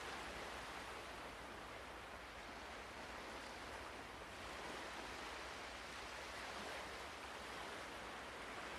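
Soft ocean surf: a steady wash of waves that ebbs a little and swells again.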